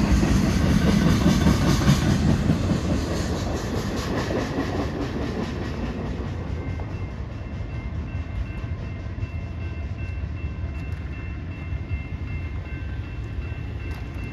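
Freight train of loaded flatcars rolling past, wheels clicking evenly over the rails, its rumble fading steadily as it pulls away. About six seconds in, a faint high steady ringing tone comes in over the fading rumble.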